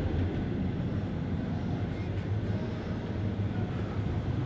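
Steady low rumble of a moving train, heard from inside a passenger carriage.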